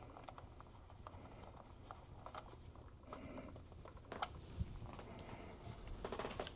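Faint handling noises of small tools and parts: scattered light clicks and rustles, with a sharper click about four seconds in, typical of a small screwdriver working screws.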